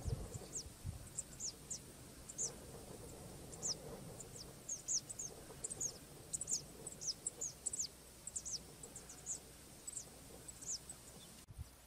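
Small birds calling: many short, high, downward-slurred chirps, scattered singly and in quick runs of several a second, over a faint steady high tone.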